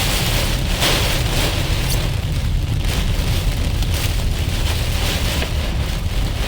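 Strong thunderstorm wind buffeting the microphone with a low rumble, over the steady hiss of heavy rain.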